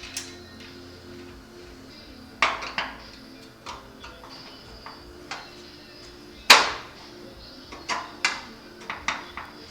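Metal-on-metal clanks and clinks from shop work: two loud ringing strikes about two and a half and six and a half seconds in, and several lighter, irregular taps toward the end.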